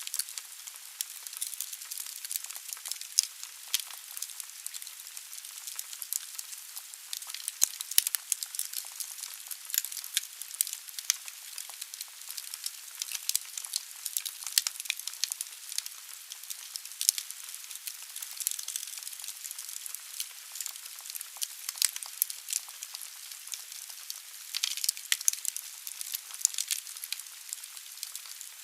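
Logs burning in a fireplace, crackling and snapping constantly over a soft hiss of fire, with no low rumble.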